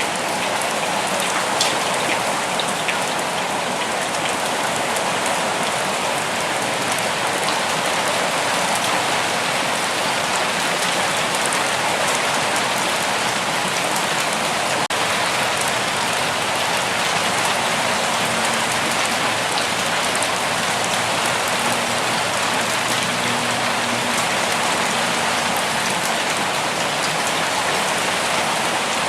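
Steady rain falling, an even dense patter with a few louder single drops standing out near the start.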